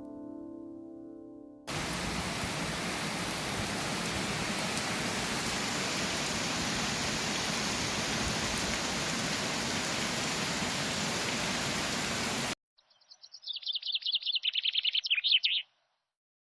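Steady hiss of heavy rain that cuts off abruptly, followed by a bird's rapid, high trill lasting about three seconds and growing louder. A piano note fades at the very start.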